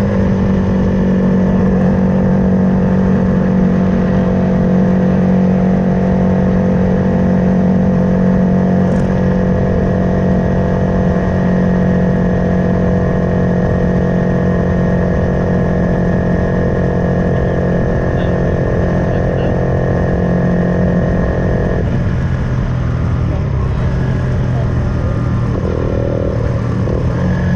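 Suzuki Van Van 125's single-cylinder engine, fitted with a Black Widow full aftermarket exhaust, running at a steady pace under way. About 22 seconds in the note thins and drops, as if the throttle is eased.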